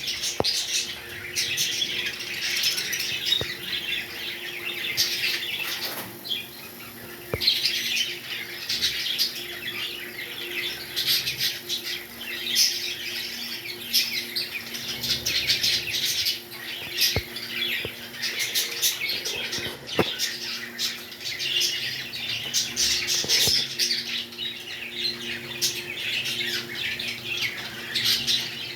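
Many small pet birds chattering and chirping continuously, with high squeaky calls and a brief lull about six seconds in. A faint steady hum runs underneath.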